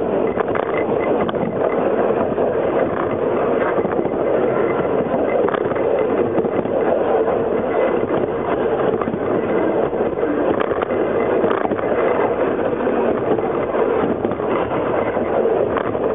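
Steady rumble and rattle of a narrow-gauge train's carriages running along the track, with a few faint clicks.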